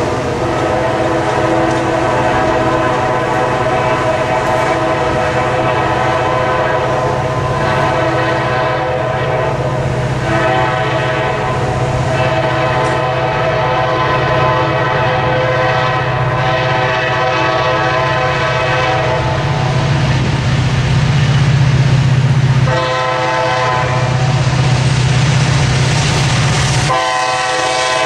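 Diesel freight locomotive's multi-chime air horn sounding long, drawn-out blasts over the steady drone of the engines and the rumble of the passing train, with two short breaks in the horn near the end.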